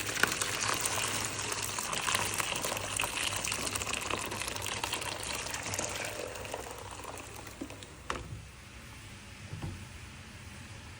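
Water running from a tap into a container, a steady hiss that fades out about seven seconds in, followed by two light knocks.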